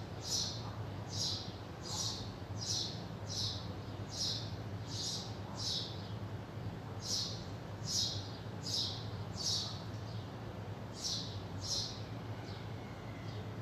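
A small bird chirping over and over in short, high chirps, nearly two a second, with a couple of brief pauses. A steady low hum runs underneath.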